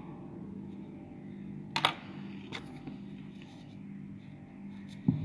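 A steady low hum with a sharp click a little under two seconds in, a fainter click shortly after, and a louder cluster of clicks near the end.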